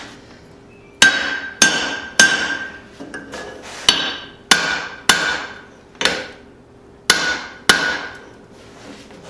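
Hand hammer blows on steel, driving a hammer drift into the punched eye of a hot forged hammer head. There are about nine ringing metallic strikes, mostly in twos and threes about 0.6 s apart, with short pauses between groups.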